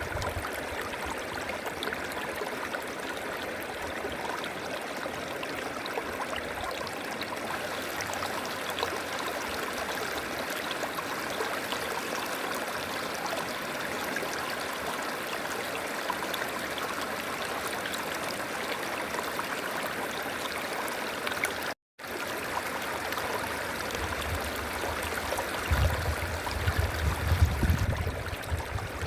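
River water flowing steadily, a continuous even rush. About three-quarters of the way through, the sound cuts out for an instant, and near the end a low rumble swells for a few seconds.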